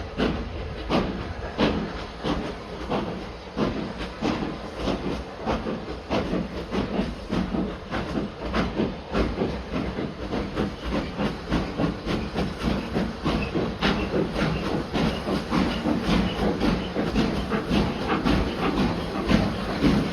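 Steam locomotive working a train: steady hiss of steam with repeated exhaust beats and clicks, the beats coming closer together toward the end.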